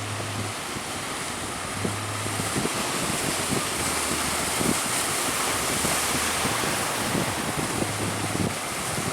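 Strong wind buffeting the microphone over the steady rush of sea waves.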